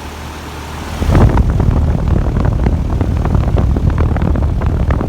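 Payne 5-ton heat pump's outdoor unit running in cooling mode: a steady low hum, then from about a second in a loud, choppy rush of air from the condenser fan.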